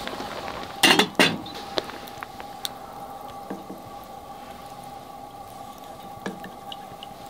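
Two sharp clinks of a utensil against cookware about a second in, followed by light scattered clicks and taps.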